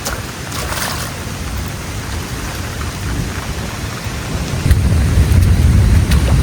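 Steady rainfall with scattered sharp drips or taps, and a deep low rumble that swells about two-thirds of the way through.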